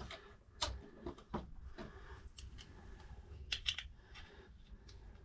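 Scattered small metallic clicks and light taps, a quick cluster about three and a half seconds in, from the safe lock's levers and key being handled.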